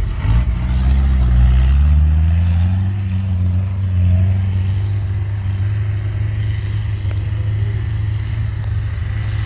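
Toyota Land Cruiser LJ70's turbo diesel engine revving up, rising in pitch over the first two or three seconds, then running steadily.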